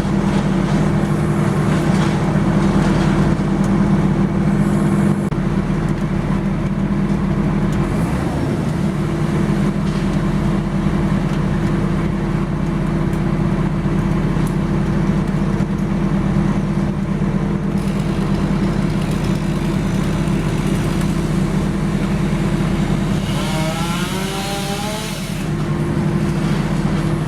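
A machine's engine running steadily at a constant speed, with a brief wavering whine about three seconds before the end.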